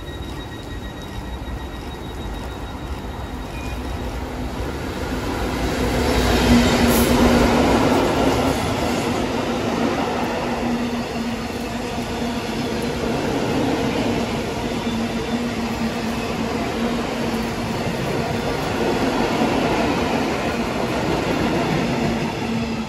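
A train passing through a station, growing louder over the first few seconds and loudest around six to eight seconds in, then running past steadily with a constant hum under the rumble of the wheels.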